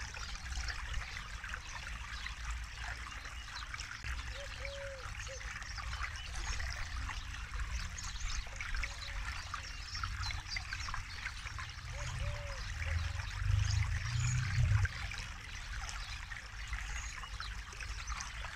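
River water flowing over rocks: a steady trickling, splashing rush with a low rumble underneath that swells briefly about two-thirds of the way through. Short low calls come back every four seconds or so.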